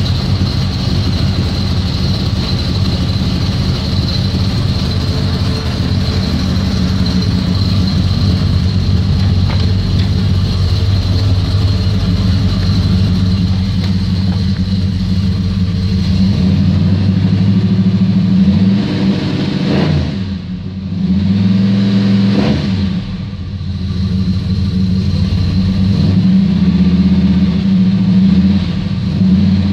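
355 cubic-inch small-block Chevrolet V8 in a 1975 Pontiac Firebird Esprit idling steadily through its exhaust, then revved up and let back down a few times in the last third.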